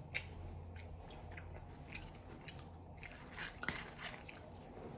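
Close-miked chewing of fried green beans: irregular soft crunches and wet mouth clicks over a faint steady low hum.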